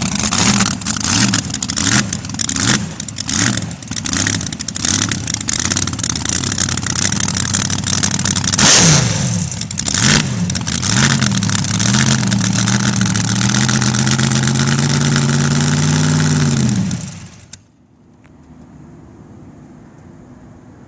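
Supercharged 355 cubic-inch small-block Chevrolet V8 on alcohol in a front-engine dragster, loud and blipped repeatedly in sharp revs for about ten seconds. It then runs at a steadier, slowly climbing pitch and cuts off abruptly about three seconds before the end, leaving only a faint background.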